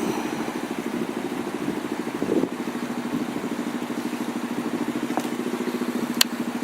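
Enduro motorcycle engine running steadily at low revs, with a brief louder swell about two seconds in and a single sharp click near the end.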